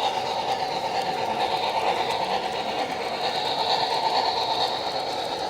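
Model train running on a layout track, its small electric motor whirring steadily.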